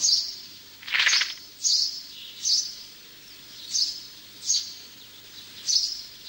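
Bird chirping as a soundtrack ambience effect: short, high chirps repeated about every second, with one longer, lower call about a second in.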